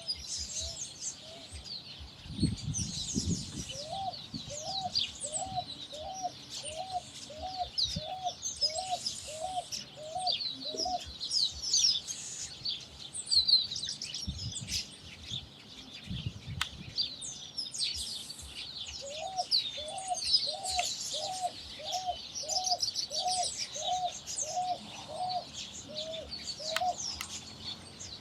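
A large flock of birds, mostly chestnut-capped blackbirds (garibaldi), chattering in a dense chorus of high chirps and whistles. Under the chorus, a lower rising call repeats about twice a second in two long runs.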